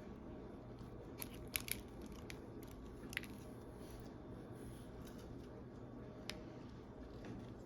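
A person biting and chewing a crunchy snack: a few sharp, scattered crunches, clustered in the first few seconds with one more near the end, over a steady low background hum.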